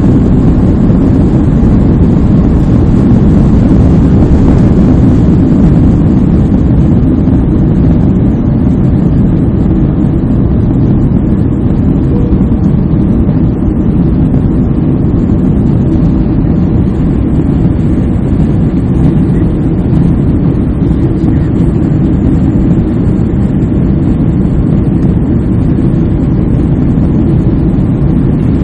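Airliner cabin noise during takeoff: a loud, steady, deep rumble of the jet engines and rushing air heard from inside the cabin, easing slightly after the first several seconds.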